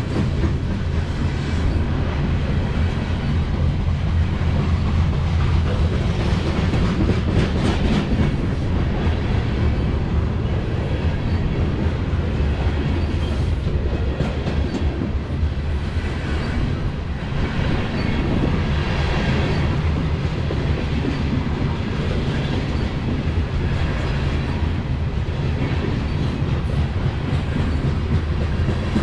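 Grain train's freight cars rolling past, wheels clattering steadily over the rails.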